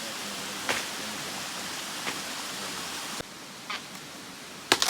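Small river rushing steadily, with a few sharp clicks or knocks over it. About three seconds in the rushing suddenly drops quieter and duller, and a quick cluster of louder clicks comes near the end.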